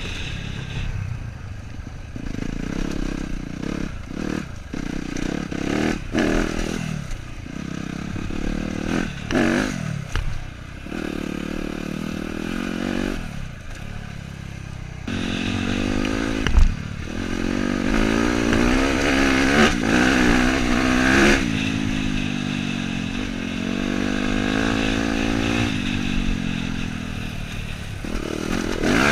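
Dirt bike engine being ridden, its revs rising and falling in short throttle blips through the first half, then held higher and steadier from about halfway. There is a single sharp knock just past the middle.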